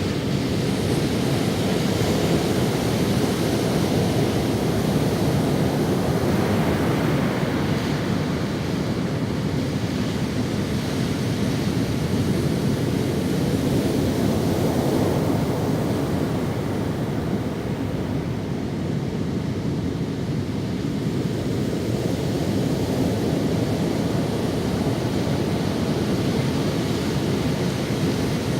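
Ocean waves breaking and washing up on a sandy beach, a steady surf rush that swells and eases slowly.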